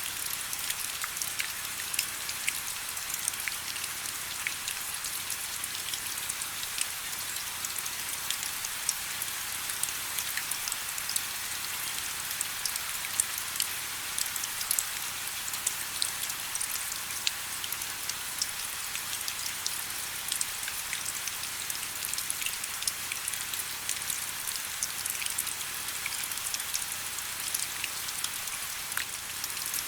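Steady rain falling, with a dense, even hiss and many small drops pattering on surfaces.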